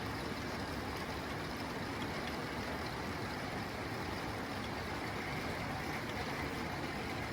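Steady rain falling on a tin roof: an even, unbroken hiss.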